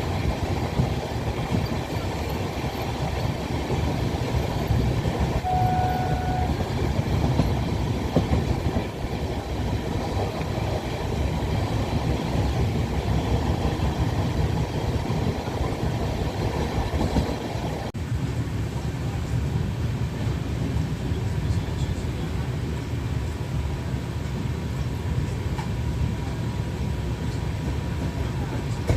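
Train running on the rails with a steady, dense rumble. A short, steady tone sounds briefly about six seconds in, and the sound changes abruptly about eighteen seconds in.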